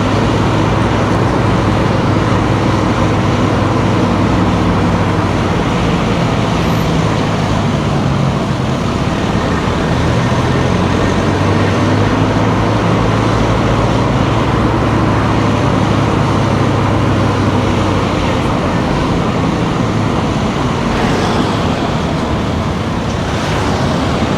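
Car engine and tyre noise while driving along town streets: a steady low hum that drifts slowly up and down in pitch with the engine speed, over an even rush of road noise.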